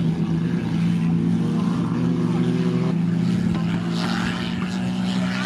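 Banger race cars' engines running as they lap the oval track, a steady, even-pitched drone.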